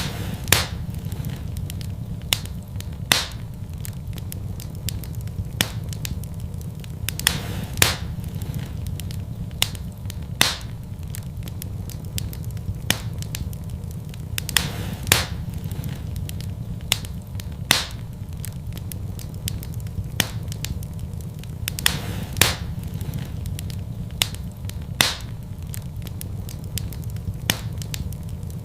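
Fireplace fire crackling, with sharp pops every second or two and fainter ticks between, over a steady low rumble.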